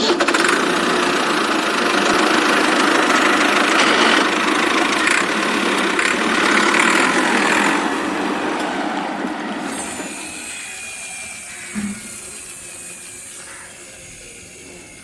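Steady engine-like mechanical running noise without a clear pitch. It is loud for about the first eight seconds, then fades away gradually over the rest.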